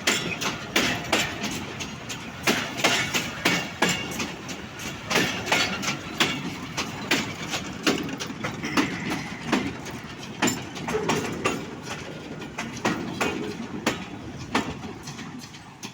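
Empty coaches of a long goods train rolling past, their wheels clattering over the rail joints in a rapid, uneven run of sharp knocks over a steady rumble.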